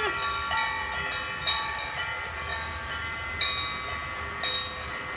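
Wind chimes ringing in the wind, struck again and again so their bright tones overlap and hang on.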